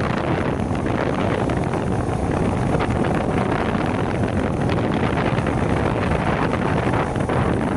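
Steady wind noise rushing over the microphone of a moving motorcycle, drowning out nearly everything else.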